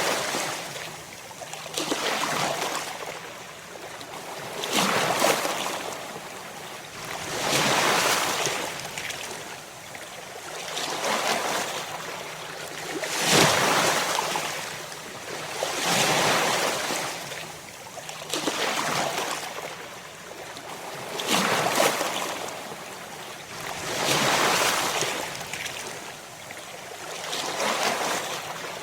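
Ocean waves breaking on a shore in a steady series, each surge of surf rising and falling away about every two and a half to three seconds.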